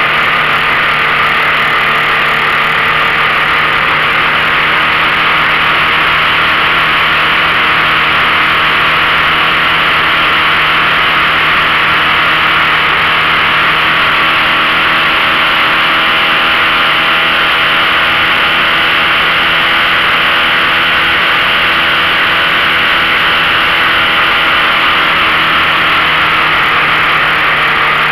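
A 15 hp outboard motor running steadily under load, pushing a 14 ft V-bottom boat while it tows another boat, with a loud rush of noise over the engine note.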